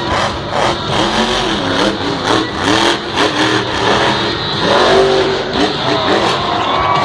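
Monster truck engine revving hard, its pitch rising and falling again and again as the throttle is worked.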